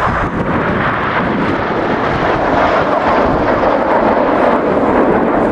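A fixed-wing aircraft flying over, its engine noise a steady rush that grows slightly louder.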